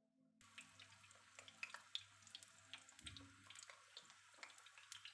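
Thin zucchini slices frying in hot oil in a pan: a faint sizzle with a crackle of scattered small pops, starting about half a second in.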